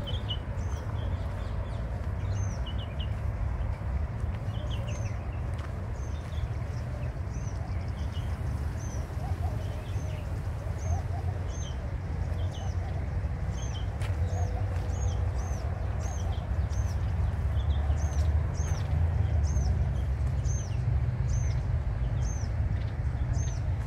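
Small birds chirping, short high chirps repeated every second or so, over a steady low rumble.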